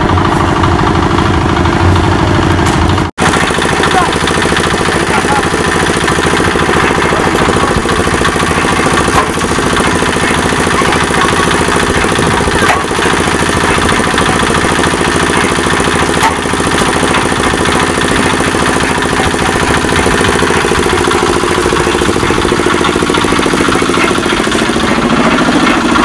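An engine running steadily at a constant pace, cutting out for an instant about three seconds in.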